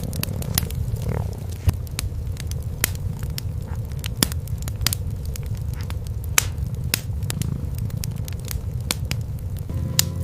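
Cats purring, a steady low rumble, over a wood fire crackling with a dozen or so sharp pops scattered throughout.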